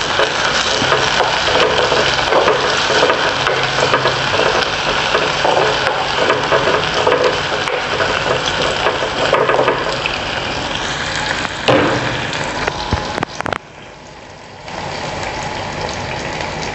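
Sliced shallots, garlic, green chilli and curry leaves sizzling and crackling in hot coconut oil in a clay pot as they are stirred. The sizzle dips for about a second near the end and comes back a little quieter.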